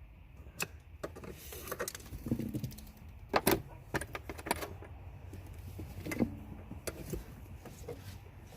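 Irregular metallic clicks and clatters of hand tools and car parts being handled, loudest about three and a half seconds in, with a couple of short grunts of effort.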